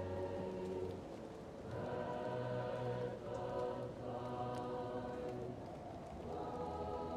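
Choir singing slow, held chords, muffled as if heard from another room, over the faint crackle and pop of a fireplace.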